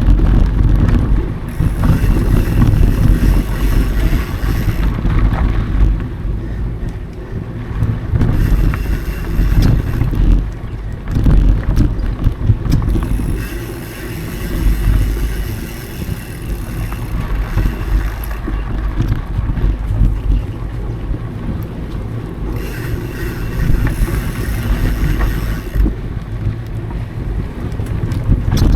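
Wind buffeting an action camera's microphone during a mountain bike ride, with a heavy low rumble and the tyres and bike rattling over the trail. A higher hiss rises and falls away several times.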